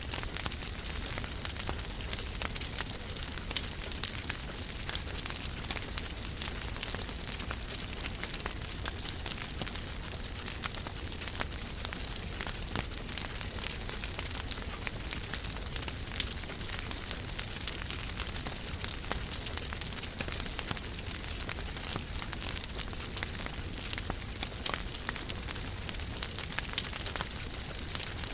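Wood fire burning in a fireplace: a steady hiss with constant small crackles and a few sharper pops, about four seconds in, midway and near the end.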